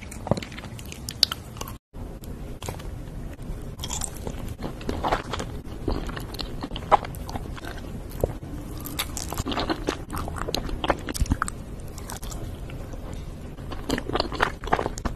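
Close-miked ASMR eating of soft mochi rice cakes: biting and chewing with many small, wet, sticky mouth clicks. About two seconds in the sound drops out for a moment, then the chewing goes on.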